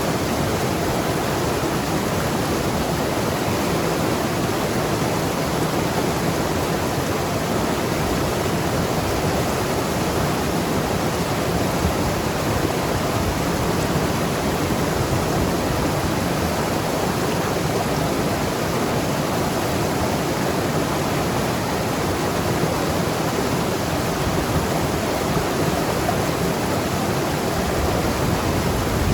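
Mountain river flowing and tumbling over rocks: a steady rushing and gurgling of water.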